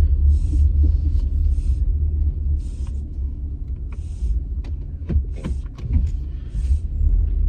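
Low, steady rumble of a car moving slowly, heard from inside the cabin, with short bursts of hiss about once a second.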